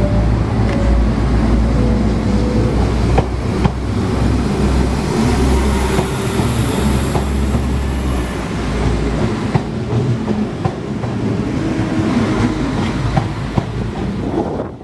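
Diesel train running through the station: a heavy low engine drone with wheels clicking over the rail joints, and a faint high wheel squeal about halfway through.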